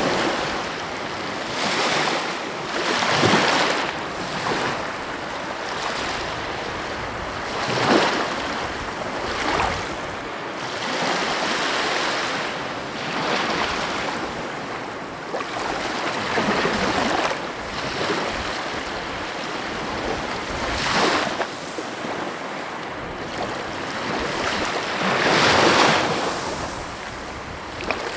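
Sea waves breaking and washing on a shore, a continuous surf noise that swells every few seconds as each wave breaks.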